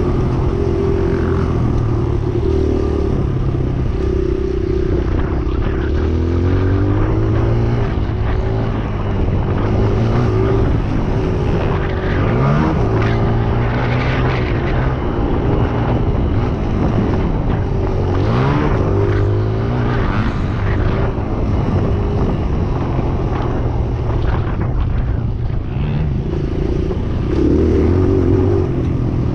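Several motocross bikes running together, their engines revving up and down as they ride, with rising pitch sweeps several times.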